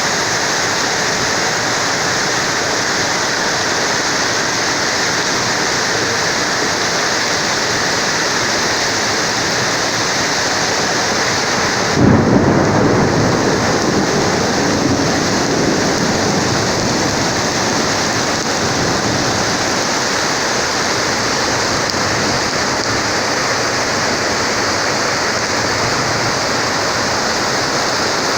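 Heavy rain pouring steadily during a thunderstorm. About twelve seconds in, a sudden clap of thunder breaks out and rumbles away over a few seconds.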